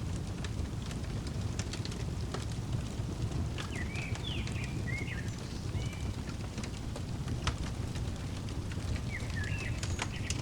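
Wood fire crackling with sharp scattered pops over a steady low rumble, while a songbird chirps a short phrase of quick notes about four seconds in and again near the end.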